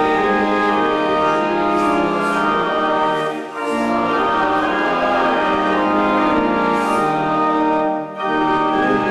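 Church organ playing sustained hymn chords, with short breaks between phrases about three and a half seconds in and again near the end.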